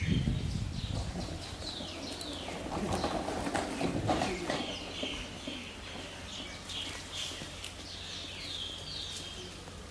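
Small birds calling in the background: a steady run of short, high, falling chirps repeated throughout, with a brief louder, lower rustle of sound around three to four seconds in.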